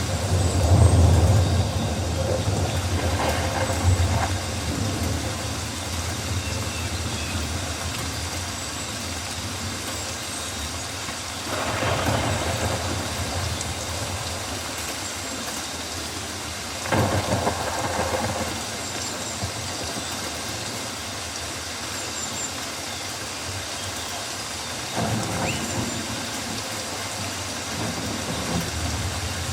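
Rainforest rain ambience: a steady wash of rain with a deep low rumble, swelling louder a few times, and faint high chirps now and then.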